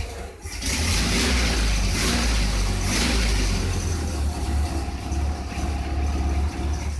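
1968 Volkswagen Beetle's air-cooled flat-four engine running, revved up about half a second in and held for a couple of seconds before settling back to a steadier run, newly brought back to life on its first startup.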